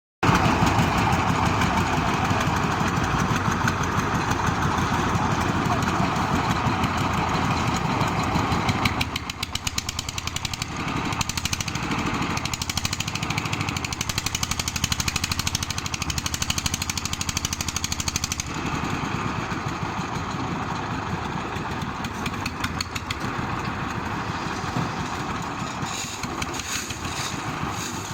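An engine running steadily with a fast, even pulse. Its sound changes abruptly about nine seconds in and again near eighteen seconds.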